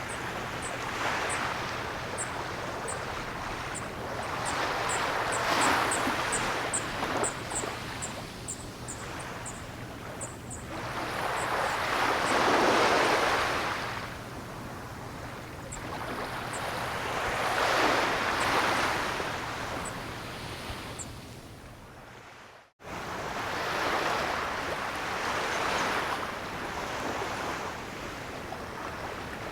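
Ocean waves breaking and washing on a shore, the surf swelling and fading about every six seconds. The sound cuts out sharply for a moment about two-thirds of the way through, then returns.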